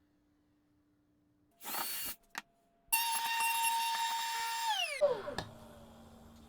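Electric power-tool motor: a short burst, then a steady high whine for about two seconds, then switched off and winding down with falling pitch.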